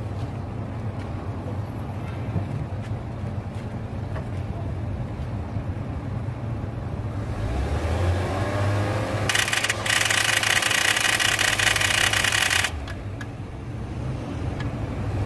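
A car engine idling, then revved from about halfway through to feed charge through jumper cables. About two-thirds of the way in, the Kia Sorento's starter motor cranks loudly for about three seconds and stops without the engine catching, because the battery is too weak to turn it over.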